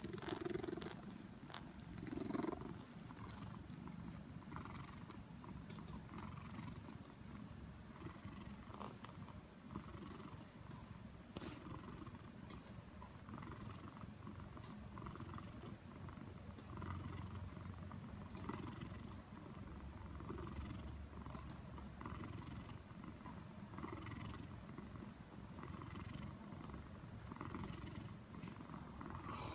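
Scottish Fold cat purring steadily, the purr swelling and fading with each breath every second or two. It is louder for a moment near the start and again about two seconds in.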